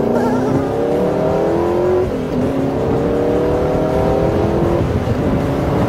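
Spyker C8 Spyder's Audi V8 accelerating hard through the gears of its manual gearbox. The engine note rises steadily, drops suddenly at an upshift about two seconds in, climbs again, and drops at a second upshift near the end.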